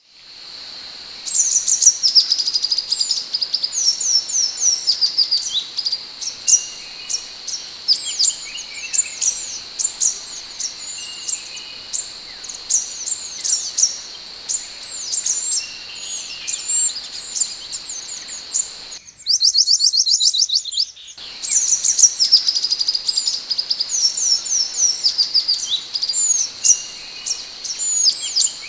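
Minivet (sepah hutan) song: a continuous run of rapid, high, sharp chirps and whistles over a steady thin high tone. About two-thirds of the way through, a denser, faster trill breaks in for a couple of seconds before the chirping resumes.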